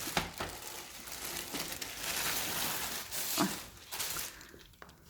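Packaging crinkling and rustling as it is handled during unboxing, loudest in the middle and dying away near the end.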